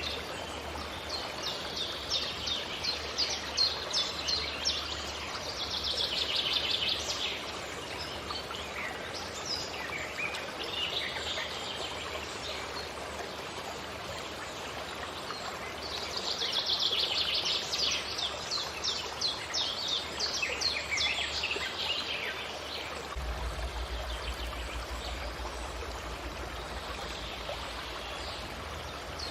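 Forest birds singing, with bursts of rapid, high trilling and chirping phrases a few seconds long, over a steady rushing background noise.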